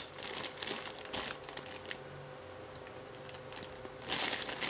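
Plastic bag crinkling as bagged model-kit runners (sprues) are handled, light crackles at first and louder crinkling near the end.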